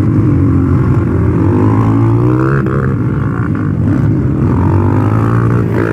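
Motocross bike engines running hard, their pitch rising and falling as the bikes accelerate and back off.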